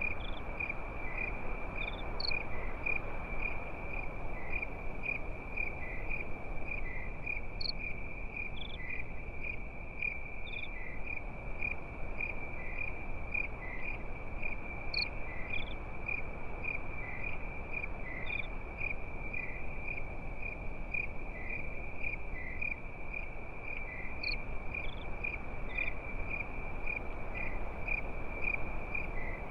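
Crickets chirping steadily at night in one high, pulsing note, with a few scattered higher chirps. A steady low rushing noise runs underneath.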